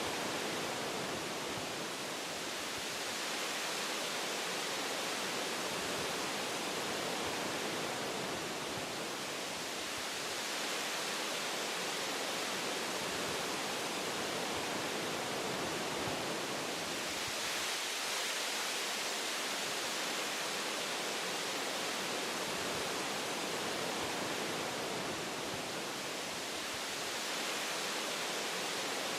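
Wind blowing through forest tree branches and leaves: a steady rushing hiss that swells and eases slightly every several seconds.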